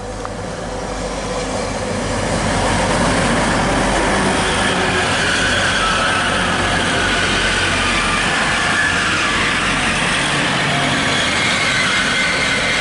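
Grand Central Class 180 diesel multiple unit running past close by, its underfloor diesel engines and wheels on the rails growing louder over the first two seconds and then holding steady as the coaches go by. Thin, wavering high squeals from the wheels ride over the rumble.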